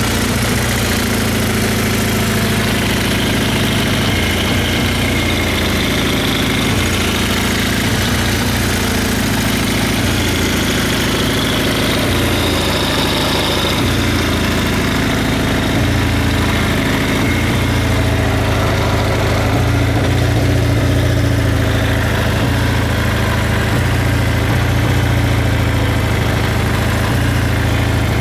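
Kawasaki Z750FX-III (KZ750E) air-cooled inline-four engine idling steadily.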